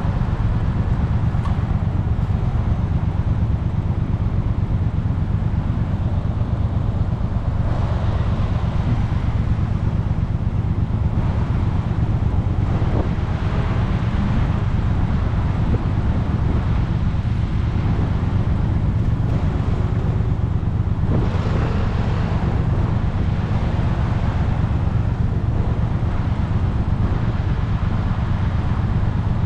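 Motorcycle engine running at a steady pace while riding, heard from the bike with wind and road noise on the microphone. A couple of brief rushes of road noise rise over it, about a third of the way in and again about two thirds in.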